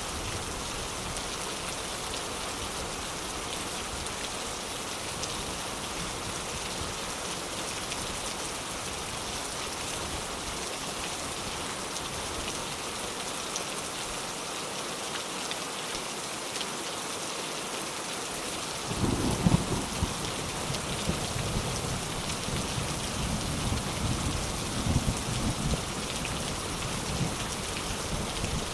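Steady rain falling, with a roll of thunder that breaks in about two-thirds of the way through and rumbles for several seconds, with a few louder peaks.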